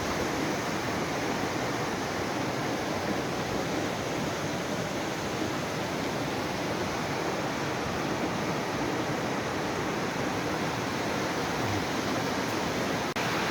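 Steady rush of a mountain stream's water flowing over rocks, with a very brief dropout near the end.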